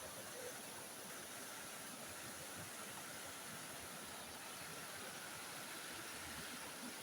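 Faint, steady rushing of waterfall water, even throughout.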